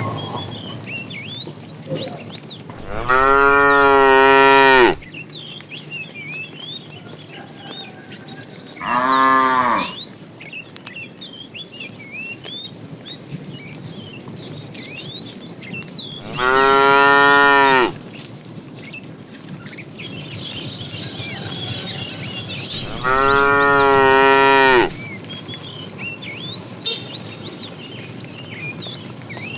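Cattle mooing: four loud, drawn-out moos spaced several seconds apart, the second one shorter.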